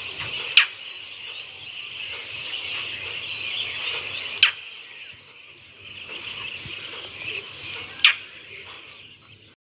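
Indian roller giving three short, harsh calls a few seconds apart over a steady, high-pitched chorus of crickets. The recording cuts off suddenly near the end.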